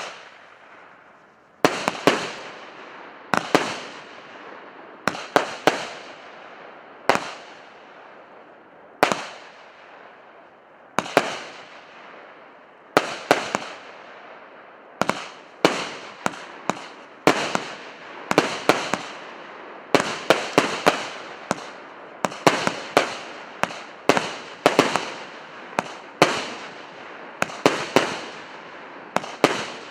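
A 100-shot firework cake ('Solar Wind', P8322) firing: sharp reports, each with a fading tail. They come one every couple of seconds at first, then faster, in quick pairs and clusters, from about halfway on.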